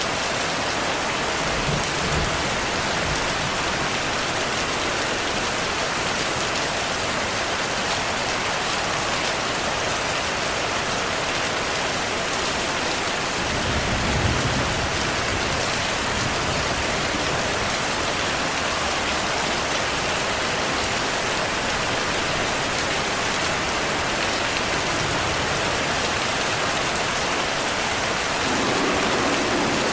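Steady rainfall with low thunder rumbles: a short one about two seconds in, a stronger one about halfway through, and another starting near the end.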